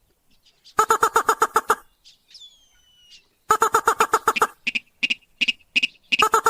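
A rail's lure call: bursts of about a second of rapid, evenly repeated harsh notes, around nine a second, repeated three times. Between them come a thin falling whistle and a few short sharp single notes.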